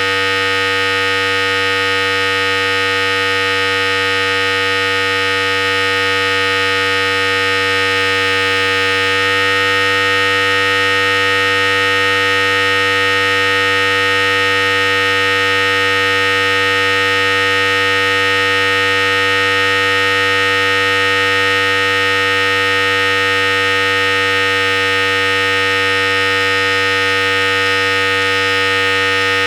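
Philips Series 5000 electric hair clipper running continuously with a steady, loud buzz. Its tone shifts slightly about nine seconds in.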